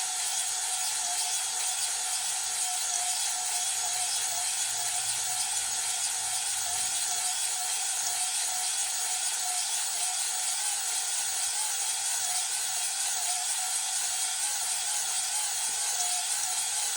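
Steady, even abrasive scraping of a cylinder hone's stones against an engine cylinder wall, restoring the crosshatch.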